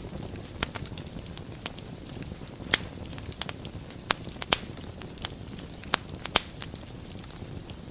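Wood fire burning in a fireplace: a steady low rumble and hiss with sharp, irregular crackles and pops, several of them louder than the rest.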